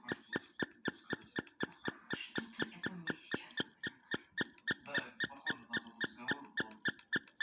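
Primer bulb on a Stihl trimmer's replica carburetor being squeezed over and over, a squeaky click about four times a second. The bulb does not fill with fuel: the copy carburetor is not priming.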